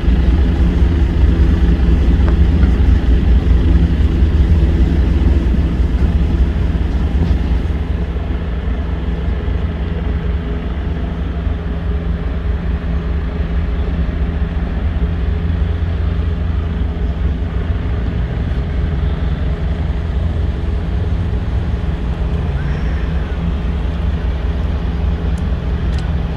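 A steady, loud engine drone with several steady low tones, easing a little in level about seven seconds in.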